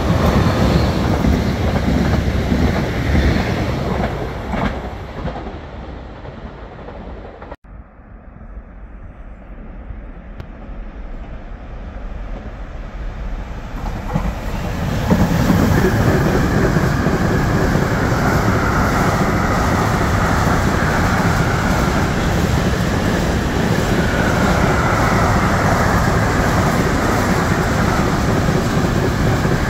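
Electric trains passing on a main line. A regional passenger train's rumble fades away over the first several seconds and breaks off suddenly. From about halfway, an electric locomotive's container freight train comes close and its wagons roll past with a loud, steady rumble and wheel clatter.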